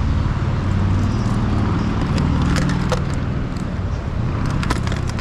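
Car engine running with road and traffic noise, a steady low rumble. A few light clicks come about two and a half to three seconds in.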